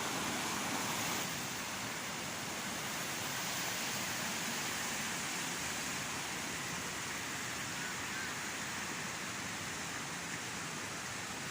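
Steady rushing noise with no distinct events, slightly quieter after about a second.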